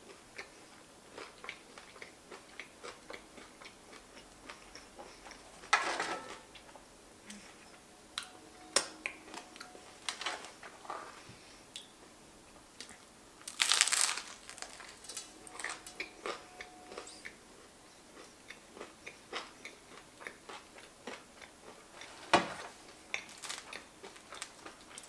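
Close-up mouth sounds of someone chewing crunchy homemade pizza crust with Nutella spread: a run of small, wet chewing clicks. Louder crunches come about six seconds in, at about fourteen seconds (the longest), and again near the end.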